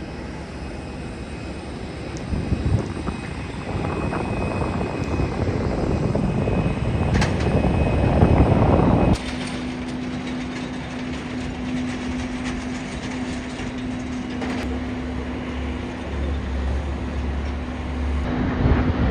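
Jet airliner engine noise swelling for about nine seconds, then cut off abruptly and replaced by a steadier jet engine sound with a held low hum, from a British Airways Airbus A319.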